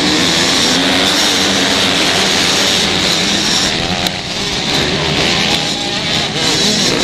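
Several 125cc motocross bikes racing, their engines revving up and down together in a loud, continuous mix.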